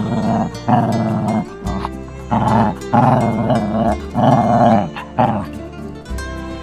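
Jack Russell Terrier growling in a string of bursts of about a second each, over background music.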